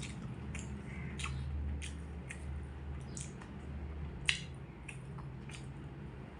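Close-up eating sounds: chewing with a run of short wet mouth smacks and clicks, roughly one or two a second, with one sharper click about four seconds in, over a low steady hum.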